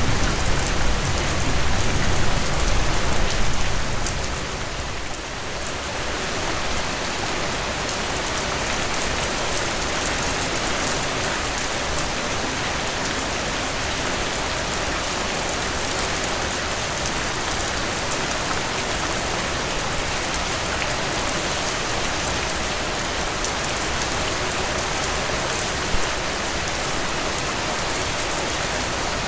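Steady rainfall pattering on surfaces, an even hiss of many drops. For about the first four seconds it is louder with a deeper rumble underneath, then it settles to a steady, slightly lighter patter.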